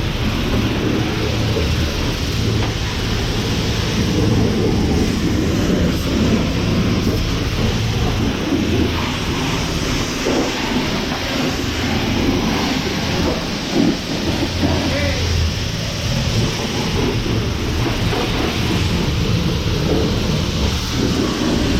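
Self-serve car wash high-pressure rinse wand spraying water onto a truck: a loud, steady hiss of spray with a low rumble.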